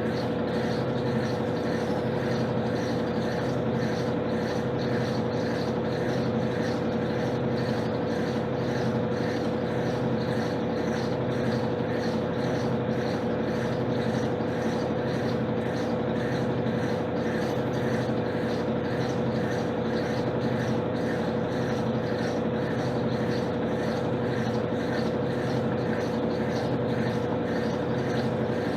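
Electrolux LTC10 top-loading washing machine running steadily late in its jeans cycle: a constant motor hum with a faint fast pulsing, without pauses or reversals.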